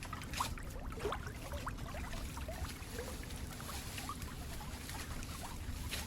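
Water trickling, with many small, quick bubbling plinks over a steady low rumble.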